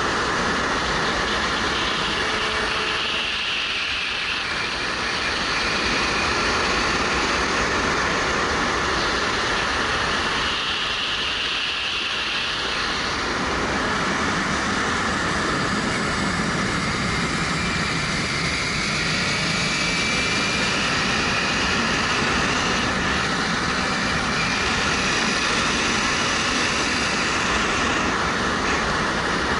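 Wind rushing over a helmet-mounted action camera while riding a 2013 Suzuki GW250, with its parallel-twin engine running underneath. The low engine sound dips briefly twice, about four and twelve seconds in.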